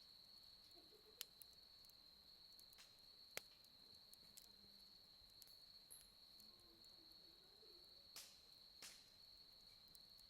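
Wood fire crackling, with a handful of sharp pops from the burning logs, the sharpest about three seconds in and two more close together near the end. Behind it runs a steady, high-pitched trill of insects.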